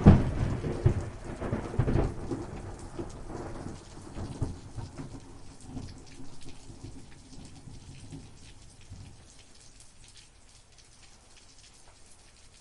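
A sudden thunderclap at the start, then rolling rumble that fades away over about nine seconds, over steady rain.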